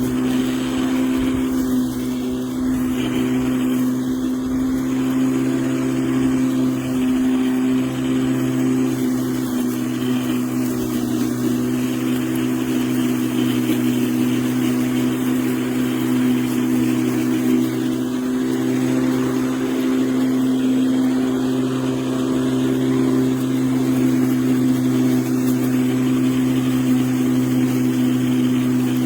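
LawnMaster CLMF4815E brushless cordless lawn mower running, its motor and spinning blade giving a steady, unchanging hum.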